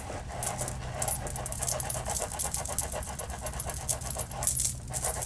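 Close-miked scalp scratching: fingers scratching through hair in fast, steady strokes.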